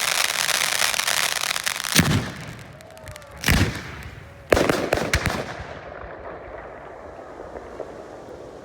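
Fireworks display: a dense crackling hiss for the first two seconds, then loud bangs about two seconds in, again about a second and a half later, and again about a second after that. The last bang is followed by a short flurry of crackles before the sound dies away.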